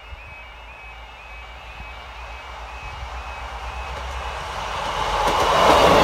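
A diesel multiple unit approaching and passing close by, its engine and wheel noise growing steadily louder to a peak near the end. A level crossing warning alarm sounds over it in a repeating high tone during the first couple of seconds.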